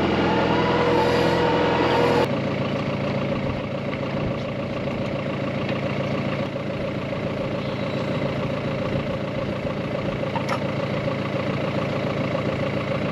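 Farm tractor's diesel engine running steadily at idle, its sound changing abruptly about two seconds in.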